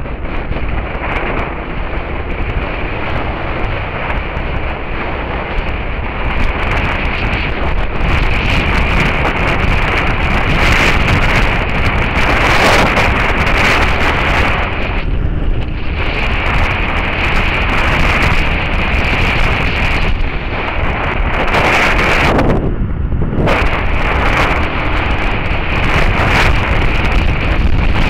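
Heavy wind rush over an action camera's microphone at riding speed, with a Suzuki SV650S V-twin and its Beowulf exhaust running underneath. The wind noise thins briefly twice, about 15 and 23 seconds in.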